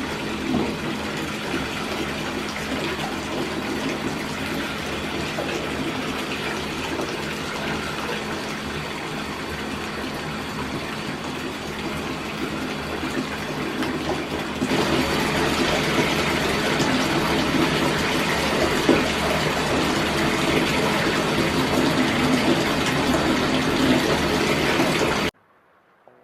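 Tap water running steadily into a filling bathtub. The flow gets louder about fifteen seconds in, and the sound cuts off suddenly near the end.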